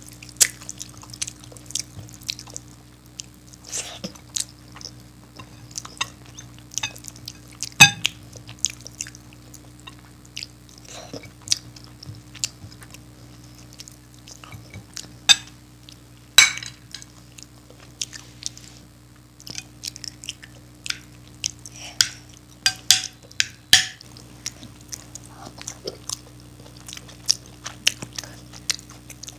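Close, mouth-level sounds of a person chewing khichdi and dahi vada eaten by hand, with short irregular clicks and smacks. The loudest clicks come about 8 and 16 seconds in. A steady low hum runs underneath.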